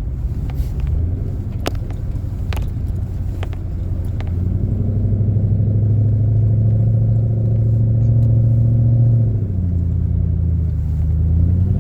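Jeep Commander's engine running under load with a steady drone; its pitch rises about four seconds in, holds, and drops back near nine seconds. Scattered sharp clicks sound over it.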